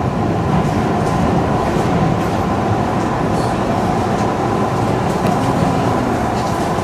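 Electric commuter train running, heard from the driver's cab as it pulls out of a station: a steady rumble of wheels on rail and motors, with a faint steady whine above it.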